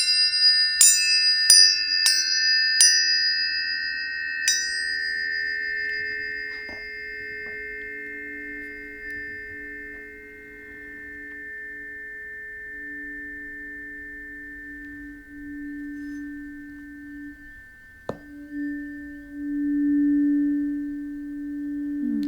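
Planetary tuning forks struck one after another, about six strikes in the first few seconds, their high ringing tones overlapping and slowly fading. About eighteen seconds in, another fork is struck and a lower tone swells and holds.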